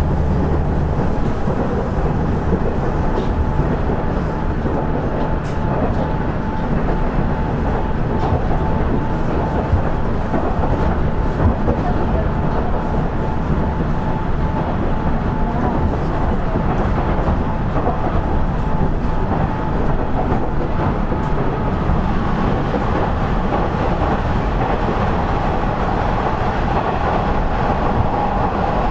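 Running noise heard inside a KiHa 110-series diesel railcar (KiHa 112) under way: a steady rumble of engine and wheels on rail, with a few faint clicks over rail joints. A thin whine grows louder near the end.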